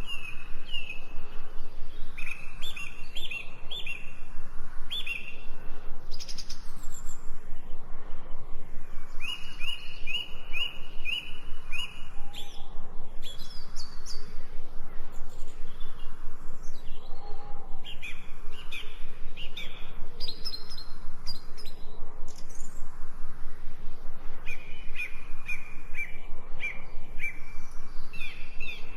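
Woodland birds singing. One bird repeats a run of short, even notes on about the same pitch every several seconds, with other chirps and brief higher calls in between.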